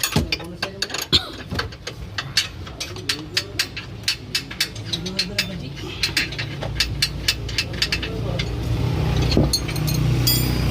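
Metal hand tools clicking in quick, irregular strokes during undercarriage work on a car. A low steady hum comes in about two-thirds of the way through.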